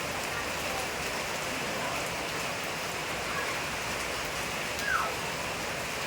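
Steady rain falling, an even hiss of rainfall. About five seconds in, a brief falling chirp sounds over it.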